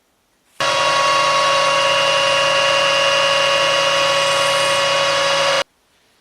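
Metalworking lathe running at a steady speed, a steady mechanical whine with several fixed tones. It starts abruptly about half a second in and cuts off sharply near the end.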